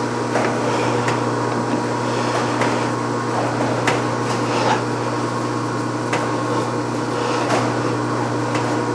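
Light metal clicks and taps from a freshly cut threaded button being tried in a hydraulic cylinder for fit, over a steady machine hum in the shop.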